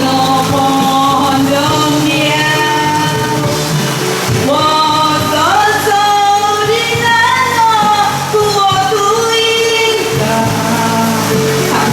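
A woman singing a song with the melody gliding and holding notes over steady musical accompaniment.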